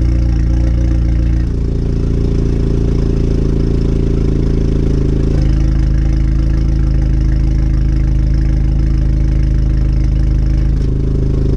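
Turbocharged 2.0-litre four-cylinder of a Volkswagen Golf R idling through a valved Remus catback exhaust and catless downpipe, on E85 after a cold start. The idle note shifts in steps a few times. There is an exhaust leak around the resonator.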